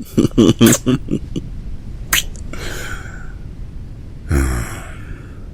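A man's soft, close-miked laughter in quick pulses, followed by a sharp click, a breathy exhale and a short low voiced sound.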